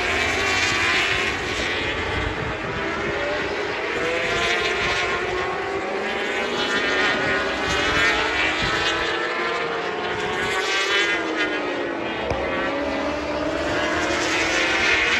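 Several racing superbikes running on track, their engines overlapping, each pitch climbing and dropping as the bikes accelerate, shift gear and pass.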